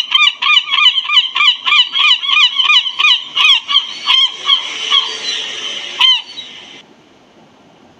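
Gull calling: a fast run of loud, yelping calls, about four or five a second, that trails off around five seconds in. One last call comes near six seconds.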